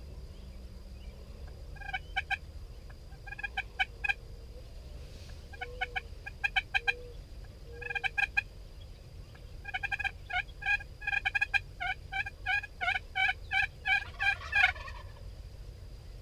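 Wild turkeys gobbling: a few short gobbles in the first half, then a long run of gobbles from about ten seconds in, the loudest near the end.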